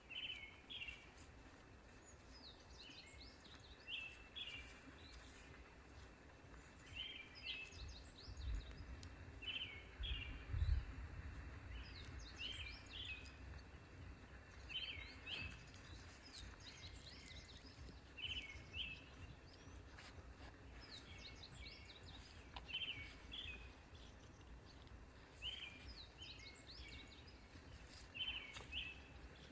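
Small birds chirping outdoors in short, quick phrases repeated every second or two, faint against a low background rumble that swells briefly about a third of the way in.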